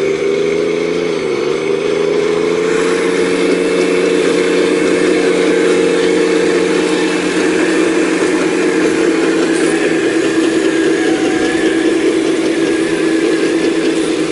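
Full-size excavator's diesel engine running steadily under work; its pitch sags briefly about a second in, as under a load, then recovers and holds, with a fainter hydraulic-sounding whine above it.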